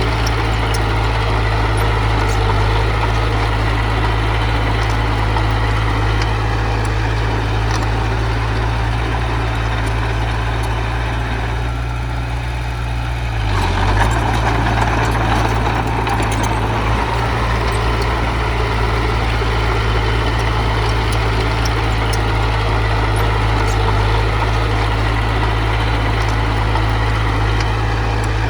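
Heavy diesel engine of an earthmoving machine running steadily. It eases off briefly about twelve seconds in, then comes back louder for a few seconds, as if taking a load.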